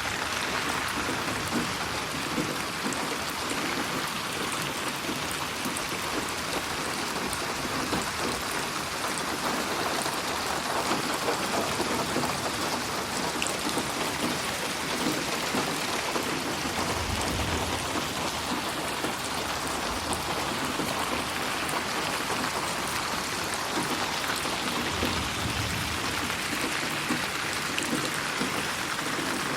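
Steady, even rainfall with drops pattering on a surface, processed as 8D audio that pans around the listener. A low rumble swells briefly twice, about halfway through and near the end.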